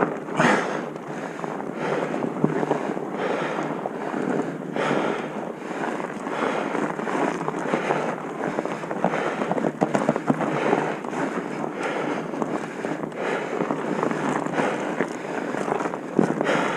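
Wind noise on the microphone, a continuous rushing that surges and eases without pause.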